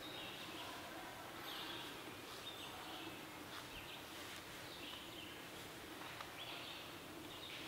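Wild birds chirping, with short calls repeating every second or so over a faint steady outdoor background.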